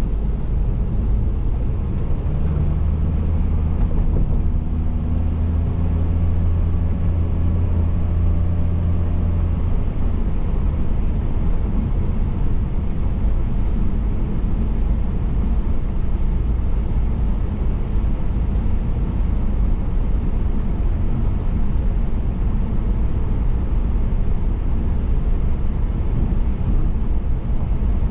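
Steady low road and tyre rumble of a car driving. For several seconds near the start a steady engine hum with a clear pitch rises above it, then drops away.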